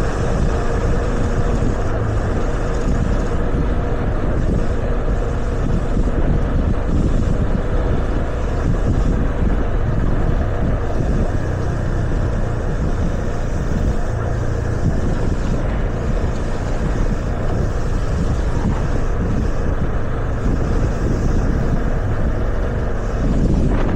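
Wind rushing over the microphone on a moving Yamaha FZS25 motorcycle, with its single-cylinder engine running steadily underneath.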